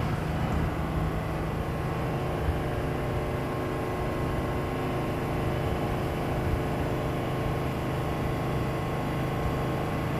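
Steady low rumble of a New York City subway train running through the station, with no wheel squeal.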